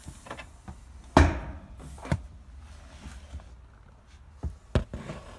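A few knocks and thumps, the loudest and sharpest about a second in, with smaller ones about two seconds in and twice near the end.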